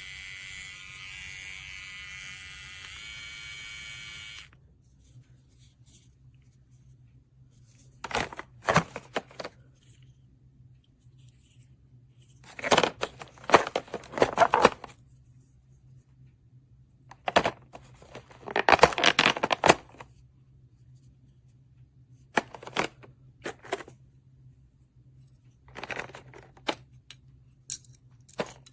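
A steady electric buzz with several even tones that cuts off abruptly after about four seconds. Then comes a series of short rustling, crinkling handling noises at irregular intervals.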